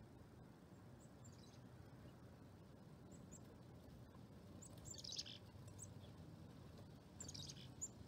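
Small birds chirping faintly: a few single high chirps, then two short bursts of quick chirping about five and seven seconds in, over a low steady hum.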